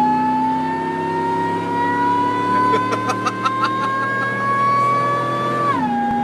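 Truck engine pulling under acceleration, its whining pitch climbing steadily, then dropping sharply near the end as the transmission shifts up. A short run of light clicks sounds in the middle.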